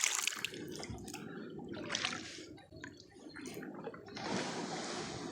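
Kayak paddle strokes in lake water: three swishes of the blade, about two seconds apart, with water dripping and trickling off the paddle between them.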